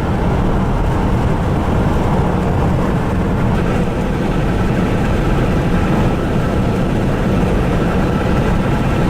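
A car on the move: a steady low rumble of engine and road noise that holds even throughout.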